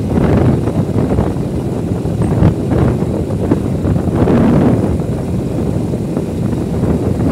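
Wind buffeting the microphone on a moving motorbike, with the running of the vehicle mixed in underneath, loud and uneven with a few stronger gusts.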